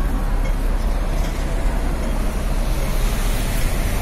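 City street traffic: a steady, low rumble of vehicles and buses running along the road.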